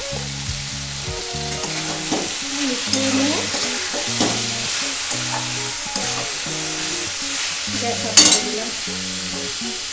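Pointed gourd and grated coconut curry sizzling in its separated oil in a metal kadai while a metal spatula stirs and scrapes through it, with one sharp clank of spatula on pan about eight seconds in. Soft background music plays underneath.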